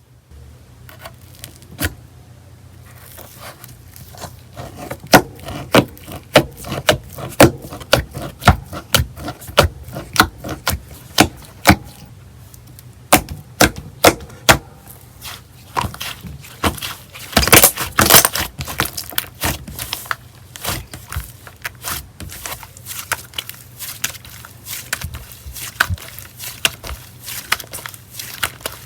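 Slime being pressed and squished by hand, giving sharp clicking pops from trapped air, roughly two a second, with a dense burst of crackling about two thirds of the way through.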